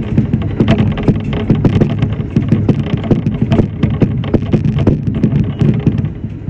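Shinano Railway SR1 electric train running between stations, heard from inside behind the cab: a steady low rumble with frequent irregular clicks and rattles.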